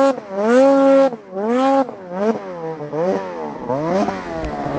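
Snowmobile engine revved in repeated throttle bursts, its pitch climbing and dropping about once a second, fainter after about two seconds.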